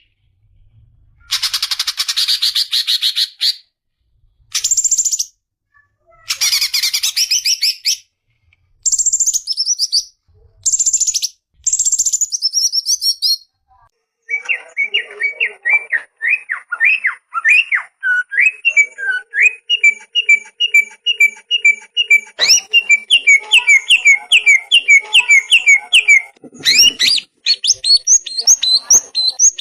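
Songbird song, loud: for the first half, short bursts of rapid high trills with pauses between them; from about halfway, a continuous song of quickly repeated rising and falling whistled notes, joined later by a second run of higher repeated chirps.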